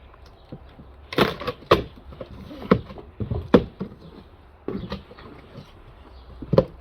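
Packaging and parts being handled while a lawnmower is unboxed: several irregular knocks and scrapes with some rustling between them.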